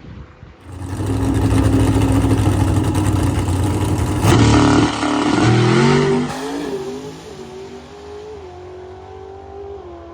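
A drag car's engine held at a steady high pitch for about three seconds, then launching. Its pitch climbs in steps through the gear changes as it pulls away and fades.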